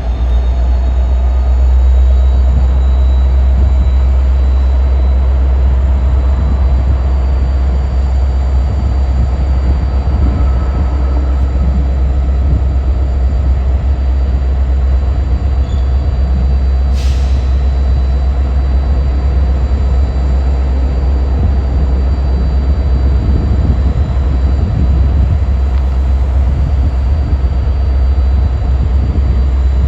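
A train rolling past with a steady low rumble, and a short hiss about seventeen seconds in.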